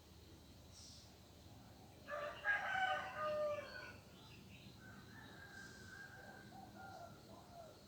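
A rooster crowing once, a drawn-out cock-a-doodle-doo lasting about two seconds, followed by fainter bird calls.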